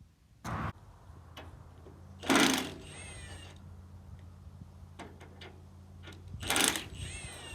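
Metal clanks and short scraping squeals from hand work on a crawler dozer's blade cable and fittings, three main clanks with high falling squeals after two of them and a few small clicks between, over a steady low hum.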